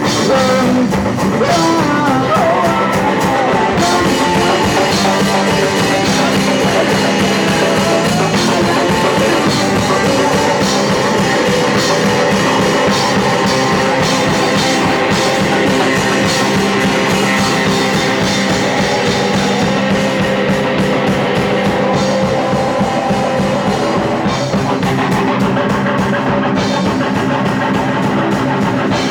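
Punk rock band playing live: distorted electric guitar and drum kit at a loud, steady level.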